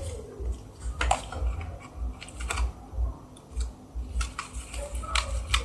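Irregular light clicks and taps of a utensil against a container as a slime mixture of glue and colouring is stirred, over a steady low pulsing from the stirring.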